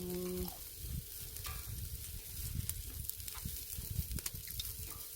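Pork neck sizzling and crackling on a charcoal brazier grill: a steady hiss dotted with small pops. A short hummed vocal sound comes right at the start, and soft low knocks run through the middle.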